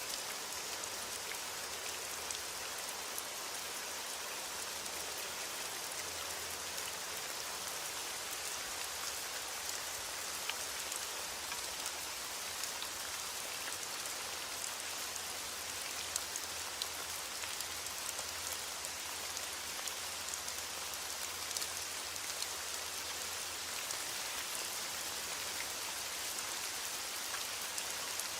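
Steady rain falling, an even hiss of many fine drop taps on a surface, with no thunder.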